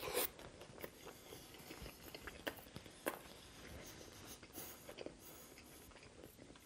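A close-miked bite into a BBQ chicken sub on a soft bun right at the start, then chewing with scattered small wet clicks and smacks.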